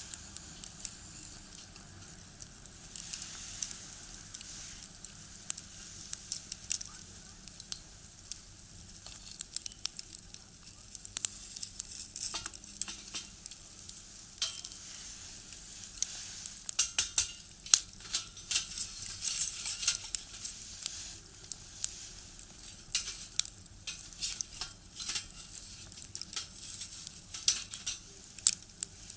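Firewood crackling as it burns in a small box stove, with irregular sharp pops and snaps over a soft hiss.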